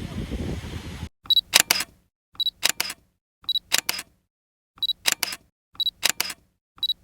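Camera taking shots roughly once a second, six in all: each is a short high beep followed by a quick double shutter click, with dead silence between shots. The shots begin about a second in, after a moment of background noise.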